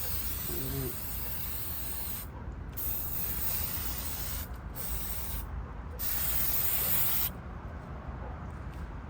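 Aerosol spray can hissing in several spells of one to four seconds with short breaks, stopping about seven seconds in.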